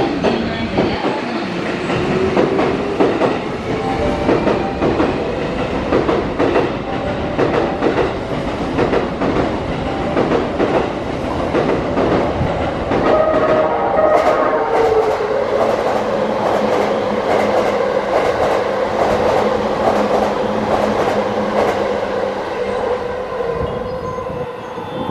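E353-series limited express electric train running into a station, wheels clicking and clattering over rail joints and points as it comes close.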